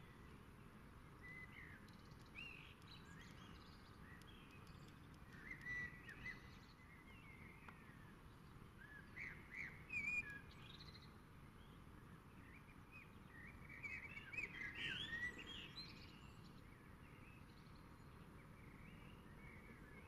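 Several birds chirping and singing in short, scattered phrases, faint, with busier bursts of song around six, ten and fifteen seconds in, over a steady low background hum.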